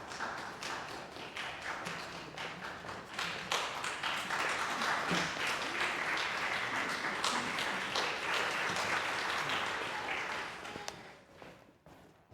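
Audience applauding: many hands clapping together, swelling a few seconds in and dying away near the end.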